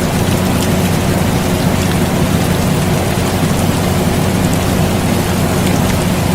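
Air conditioner running with a steady low hum, mixed with steady rain and scattered faint drop ticks.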